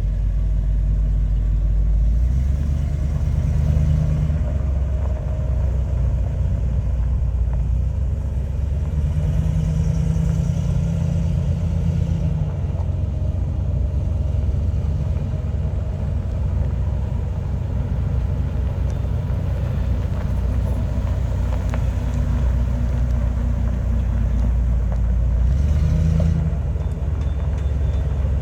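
A 1994 Ford F700 flatbed truck's engine running steadily, its low rumble shifting in pitch a few times as the engine speed changes.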